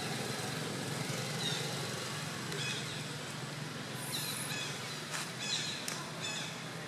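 Several short, high-pitched animal calls, clustered in the middle and second half, over a steady outdoor background noise.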